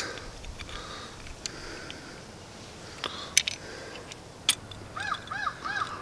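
A few light clicks and taps from handling a compressor pressure switch and a thin wire, then near the end a bird calling a quick run of repeated rising-and-falling notes, about three a second.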